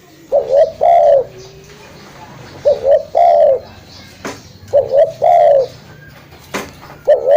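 Spotted dove (tekukur) cooing: a phrase of a quick double coo followed by a longer coo that rises and then falls, repeated about every two seconds, four times in all. There are a few faint clicks between the phrases.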